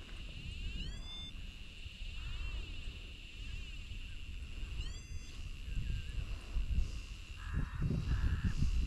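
A bird gives a short, upward-sweeping call twice, about four seconds apart, over a steady high drone and low wind rumble on the microphone.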